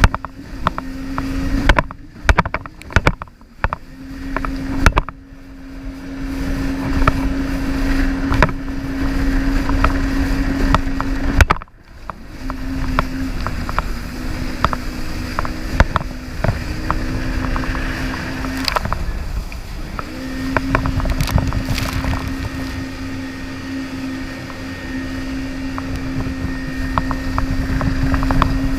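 Jet ski engine running with a steady drone that drops away briefly a few times, with water splashes and knocks over it and wind on the microphone.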